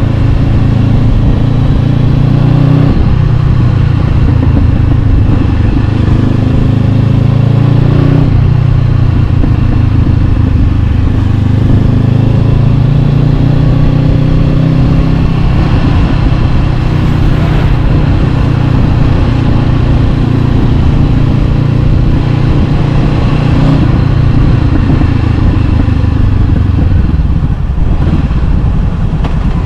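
Honda CB500X's 471 cc parallel-twin engine through an Arrow Pro-Race exhaust while riding, the engine note rising and dropping several times as the bike accelerates and changes gear.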